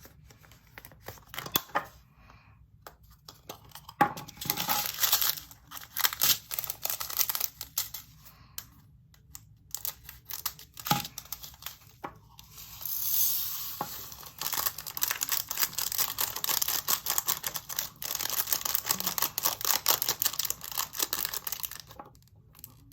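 Plastic bag of resin diamond-painting drills crinkling and being handled, then a long rattling patter of the tiny drills pouring into a plastic storage container.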